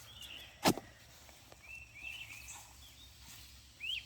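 Birds calling with short chirps in the background, and one sharp knock a little under a second in.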